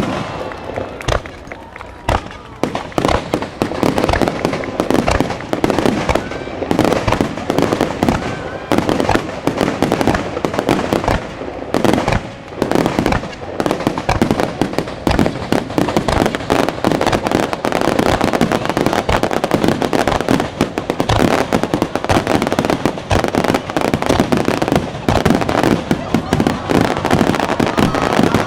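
Fireworks going off in rapid succession: a dense, continuous run of bangs and crackles, with people's voices mixed in.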